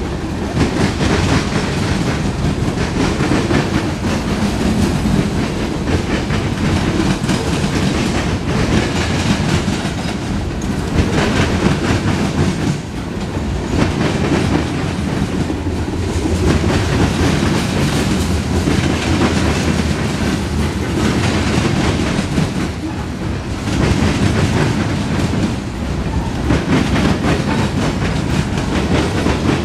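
Freight cars of a CSX mixed freight train (tank cars, then centerbeam flatcars loaded with lumber) rolling past close by: a steady, loud rumble with repeated clicks of the wheels over the rail joints.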